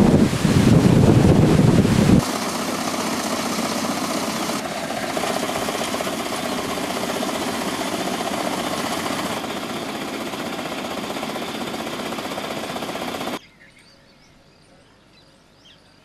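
Wind buffeting the microphone with a low rumble, giving way after about two seconds to a steady hiss of noise that changes abruptly twice. Near the end it cuts off to a quiet background with a few faint high bird chirps.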